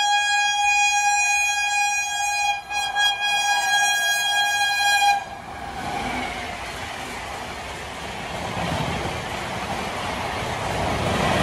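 The Patna Janshatabdi Express's electric locomotive sounds a long horn blast of about five seconds, broken briefly a couple of times midway. Then comes the rushing, clattering noise of the train's coaches passing at speed, growing louder near the end.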